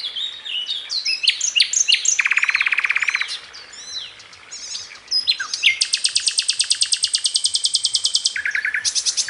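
Songbird song: a fast run of varied high chirps and swooping notes, broken by rapid trills, a lower one about two seconds in and a long high, buzzy-fast trill in the second half.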